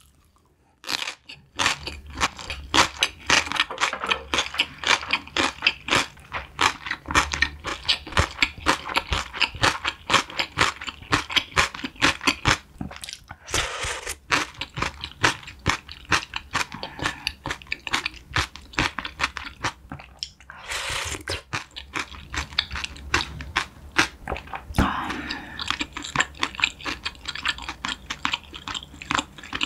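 Close-miked crunching and chewing of pickled yellow radish (danmuji): a long run of fast, crisp crunches. About halfway through, and again about two-thirds of the way, come short slurps of spicy broth from a spoon, and the chewing carries on between them.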